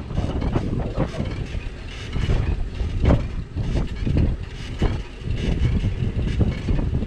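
Bicycle ride heard from a camera mounted on the bike: steady wind rumble on the microphone, with frequent knocks and rattles as the bike jolts over the road.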